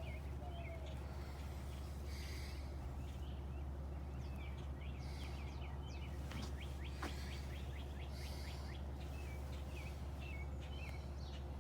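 Birds chirping repeatedly over a steady low hum.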